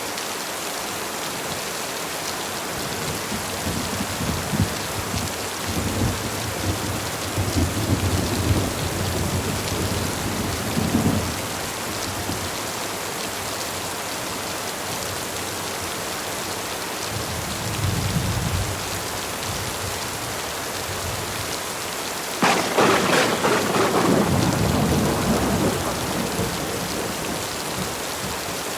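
Heavy rain falling steadily as an even hiss, with thunder rolling through it: a long low rumble with crackles in the first seconds, a short distant rumble in the middle, then a sharp, loud thunderclap about 22 seconds in that rumbles away over several seconds.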